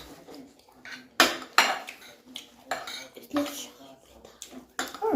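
Cutlery scraping and clinking against plates in quick, irregular strokes as people eat rice.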